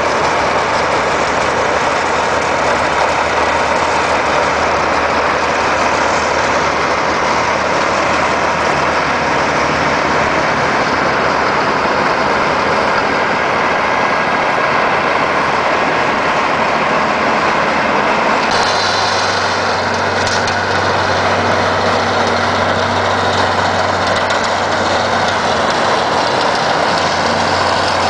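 An 1850 Oliver tractor's 354 Perkins diesel runs steadily, driving a homemade snowblower with a dense, even blower noise over the engine hum. About 18 seconds in, the engine note steps up a little and the hiss gets brighter.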